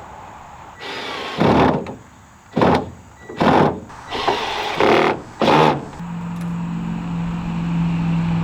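Woodworking on the boards of a cargo rack: a run of about six short, harsh scraping or knocking bursts, then about six seconds in a small motor starts and runs with a steady hum.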